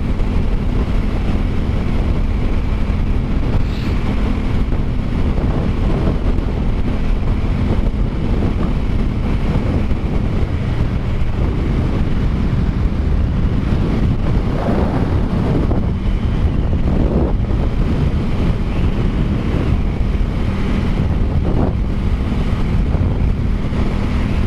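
Wind rushing over the microphone and a 2021 Aprilia Tuono 660's parallel-twin engine running steadily on its stock exhaust at a steady cruise.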